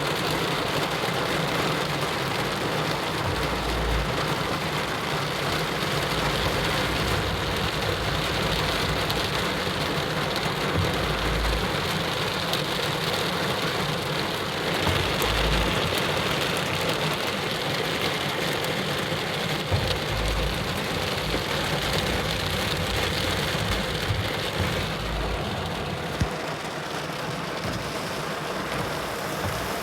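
Heavy rain from a sudden cloudburst, a steady dense hiss of rain falling and splashing, easing slightly in the last few seconds. A few brief low rumbles come through the rain.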